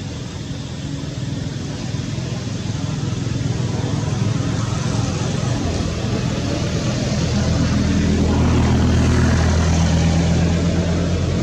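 A motor engine running steadily, growing louder in the second half.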